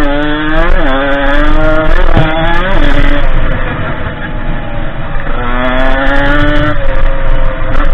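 Derbi 50cc two-stroke engine of a dirt bike running under riding, its pitch climbing and falling several times as the throttle opens and closes.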